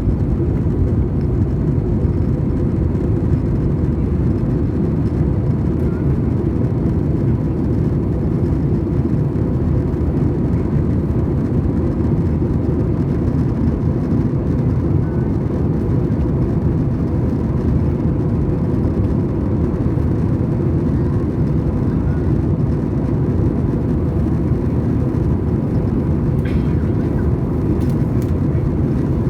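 Steady drone inside the cabin of an Airbus A320 airliner: jet engine and airflow noise, deep and even, with a faint steady hum. A few faint clicks near the end.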